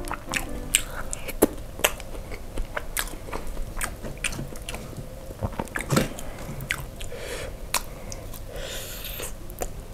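Close-up chewing and biting of grilled ribs in sambal, full of short, sharp, irregular wet clicks and smacks of mouth and fingers.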